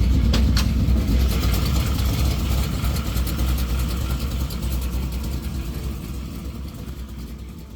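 Engine of a 1969 Chevrolet C10 pickup running at a steady idle, with two light clicks near the start, fading out gradually toward the end.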